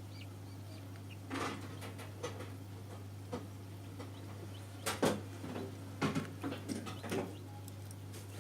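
Steady low hum of a homemade egg incubator, with scattered light knocks and scrapes. The knocks come in a cluster about five to seven seconds in.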